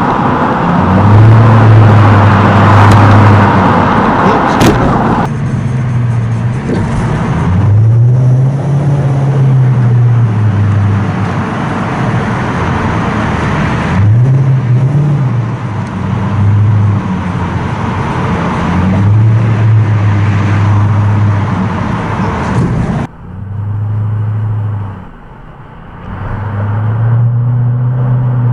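Toyota Crown Majesta's V8 exhaust through a straight-through muffler system, very loud in a tunnel, with a deep drone that rises and falls as the engine is revved up and eased off several times.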